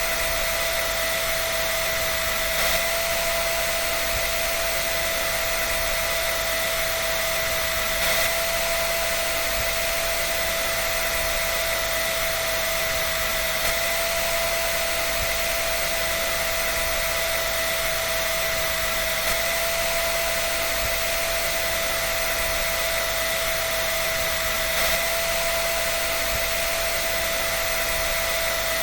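Electric hair dryer running steadily: a constant hiss of blown air over a steady motor whine. A slight bump in level recurs about every five and a half seconds.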